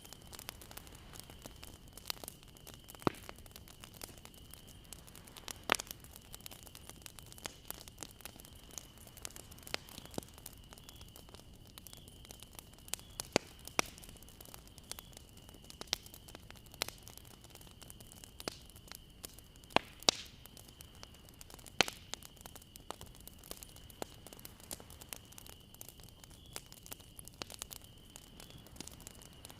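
Bonfire crackling: irregular sharp pops and snaps, a few much louder than the rest, over a soft hiss, with a faint steady high whine running underneath.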